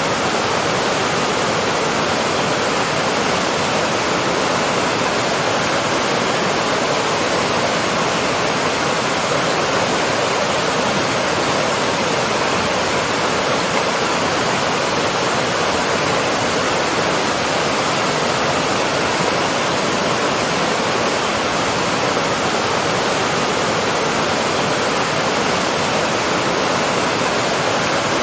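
Waterfall: water falling and rushing in a steady, even roar of noise without any change.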